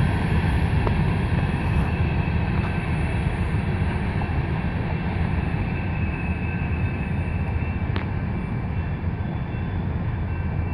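Freight train pulling away around a curve, its locomotives notched up under throttle as it picks up speed: a steady low rumble that slowly eases.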